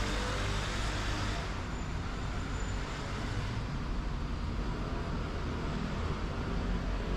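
Street traffic: motor vehicles running and passing, a steady low engine hum that eases off after the first second or so, under a constant wash of road noise.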